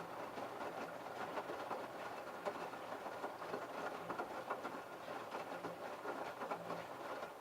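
LG F1222TD direct-drive washing machine turning its drum during the babycare prewash: a steady rattling churn of wet laundry and water with many small clicks. It drops away sharply near the end as the drum stops.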